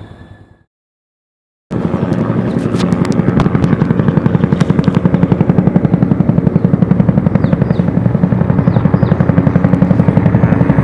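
Helicopter flying close by, its rotor blades making a loud, steady, fast chopping beat. The sound starts abruptly after about a second of dead silence.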